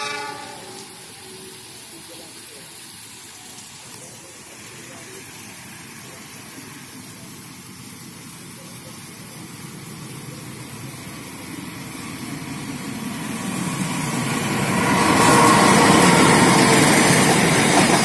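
Diesel-hauled passenger train running through a station without stopping: its rumble grows steadily from about halfway through and turns loud as the locomotive reaches and passes close by, about three-quarters of the way in.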